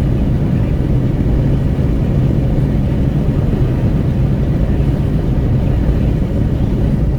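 Steady low rumble of wind at an open window and road noise inside a Renault Kwid 1.0 cruising on the highway.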